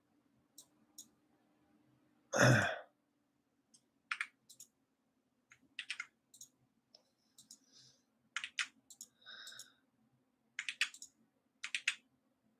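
Computer mouse clicking at intervals, often in quick pairs, as radar frames are stepped through. About two and a half seconds in there is one loud, short burst of noise, and a faint steady hum runs underneath.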